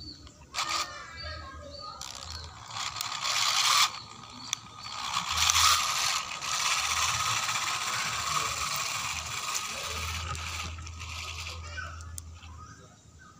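Homemade RC truck gearbox, PVC housing with plastic gears salvaged from an electric fan, whirring and rattling as it is driven, with a steady whine. A short clicking comes about half a second in; the whirring starts about two seconds in, dips briefly around four seconds and fades near the end.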